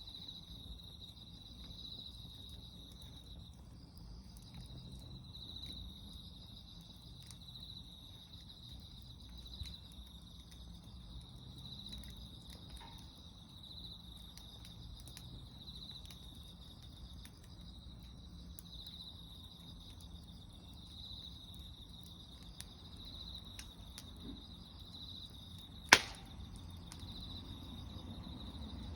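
Wood fire crackling with scattered sharp pops and one loud crack near the end, over a low rumble. Insects chirr steadily behind it, pulsing about once a second.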